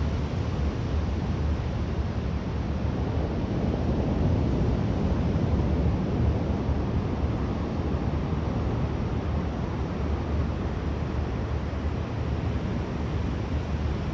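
Wind buffeting the microphone over the steady rush of rough surf breaking on the beach, swelling slightly midway.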